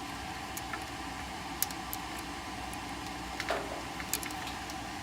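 A few light clicks and taps of wire terminals being handled as furnace blower motor leads are moved on the control board, over a steady background hum.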